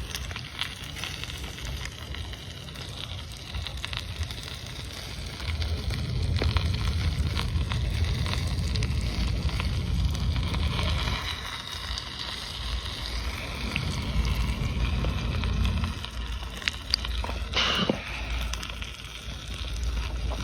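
Cooking fire burning: a low rumble that swells from about six seconds in, with scattered crackles and a sharp pop near the end.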